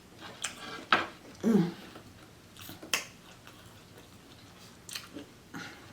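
Mouth sounds of someone eating seafood boil: scattered wet smacks and clicks roughly a second apart, with a brief low vocal hum about one and a half seconds in.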